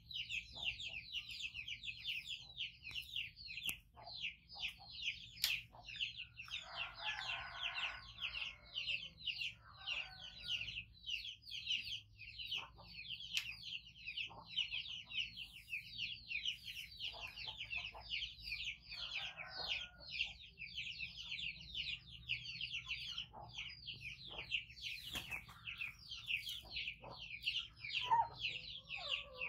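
Small birds chirping without a break: many short, high, falling notes a second, overlapping. A few softer, lower sounds come in around a quarter and two-thirds of the way through.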